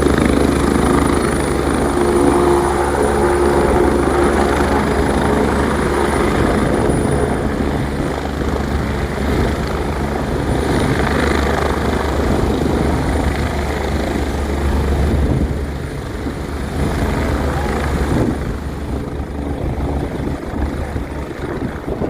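AW119 Koala single-engine helicopter landing: the low beat of the main rotor with a steady high turbine whine over it, getting somewhat quieter in the last several seconds.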